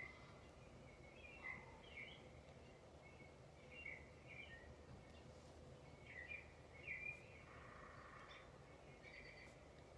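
Small birds chirping faintly in scattered short calls, one every second or so, over a low, steady background rumble.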